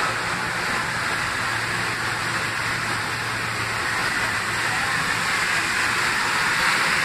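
Metro-North M3 electric multiple-unit train, a steady hiss with a low hum underneath, getting slightly louder near the end.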